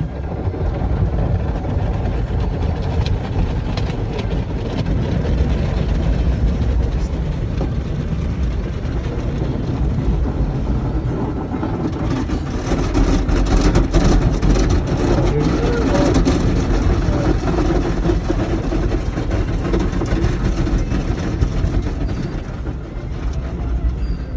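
Automatic car wash heard from inside the car: a steady rush of water spray and machinery over a low rumble. It grows louder and more clattery about halfway through.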